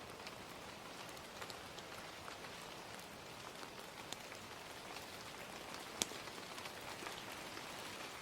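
Gentle rain falling steadily, mixed with a crackling fire whose sharp pops stand out now and then, the loudest about six seconds in.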